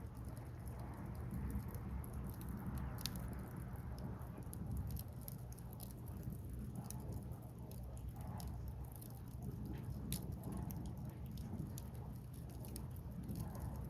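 Firewood burning in an open fire, crackling with frequent sharp, irregular pops over a steady low rush.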